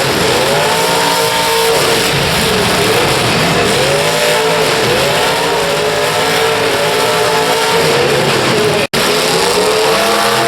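Demolition derby cars' engines revving up and down again and again over a dense, loud roar of several cars running at once. The sound cuts out for an instant near the end.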